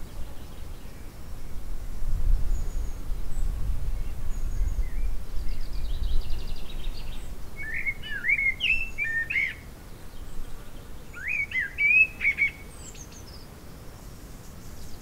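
Small birds chirping in short runs of quick up-and-down chirps, about halfway through and again a few seconds later, over a low rumble that is loudest in the first half.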